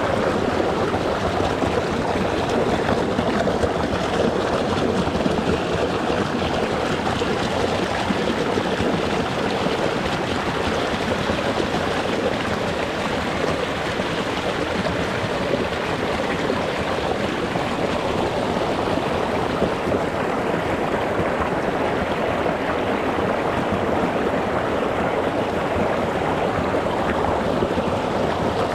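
Shallow rocky mountain stream running over stones: a steady, even rush of water with no breaks.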